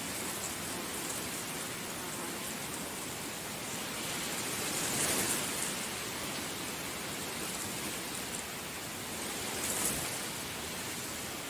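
Heavy rain falling steadily, swelling briefly about five seconds in and again near the end.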